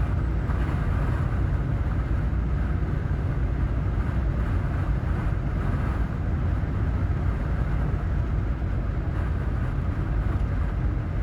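Steady drone of a semi-truck's engine and road noise heard inside the cab while cruising on the highway.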